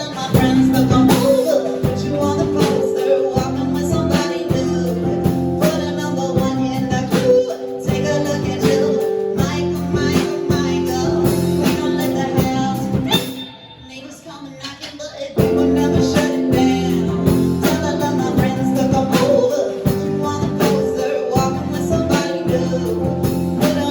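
Live band playing a song with singing and guitar. The music drops to a brief lull a little past halfway, then comes back in at full level.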